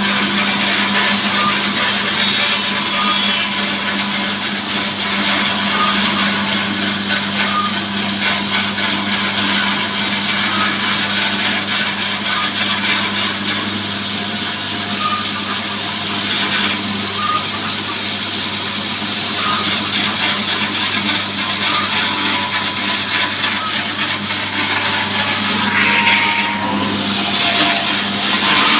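Petrol-engine-driven sawmill running steadily at speed, its saw cutting through mahogany.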